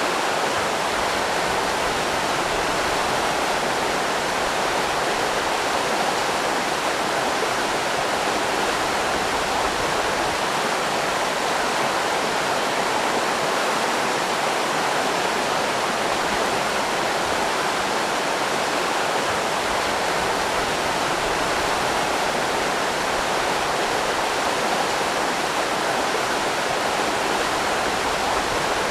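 River rapids: water rushing steadily over rocks, a constant even roar.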